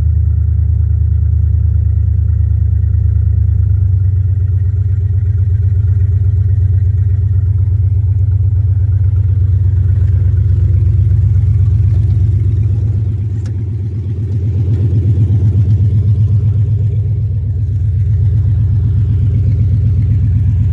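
Chevrolet Silverado engine idling just after a cold start, running loud on open headers with no exhaust at all. The idle sags briefly about two-thirds of the way through, then picks back up.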